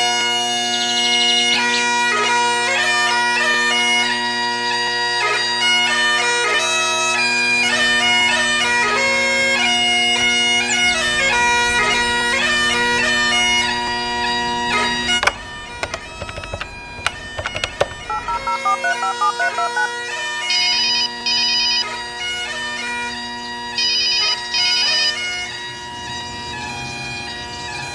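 Bagpipes playing: a steady drone under a fast chanter melody. The pipes break off for a few seconds about halfway, and later a telephone rings in short bursts over the returning drone.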